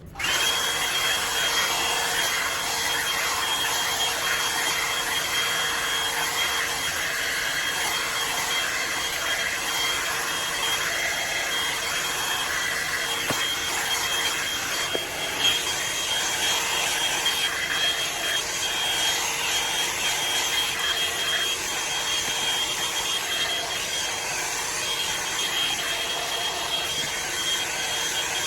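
Drybar Double Shot blow-dryer brush switched on right at the start and then running steadily: rushing air with a steady high whine from its motor.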